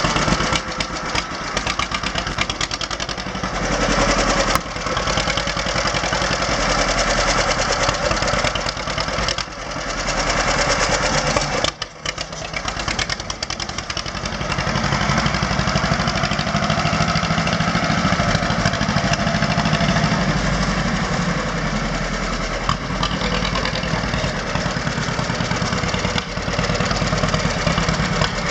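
John Deere H tractor's two-cylinder engine running steadily, with a brief drop in level about twelve seconds in.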